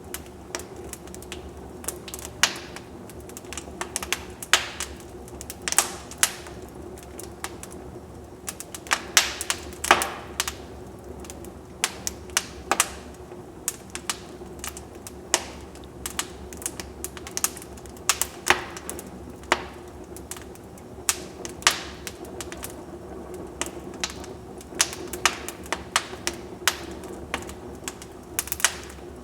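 Wood fire crackling in a fireplace: irregular sharp pops and snaps over a low steady hiss of burning logs.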